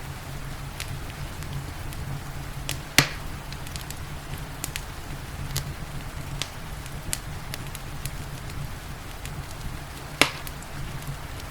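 Wood fire crackling with scattered small snaps and two loud pops, one about three seconds in and one near the end, over a steady low rumble and a soft hiss of rain.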